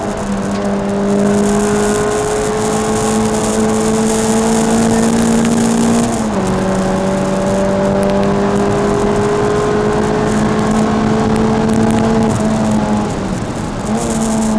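Peugeot 306 Rallye's four-cylinder petrol engine heard from inside the cabin on track, its note climbing steadily through the revs. About six seconds in the pitch drops sharply at an upshift and then climbs again. Near the end the revs fall and then pick up once more, over a steady hiss of road and wind noise.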